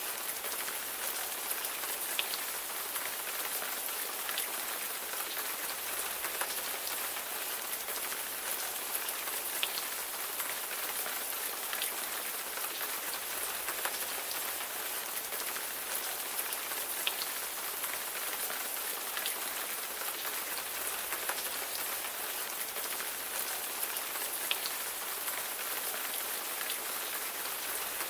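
Steady rain falling, a dense even hiss with many distinct raindrops ticking on a surface.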